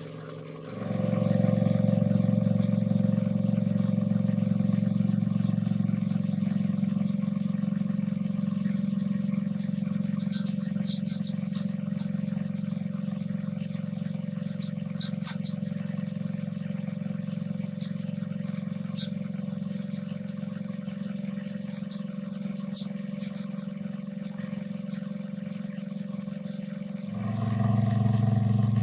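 A small engine running at a steady speed. It comes in about a second in and changes note near the end.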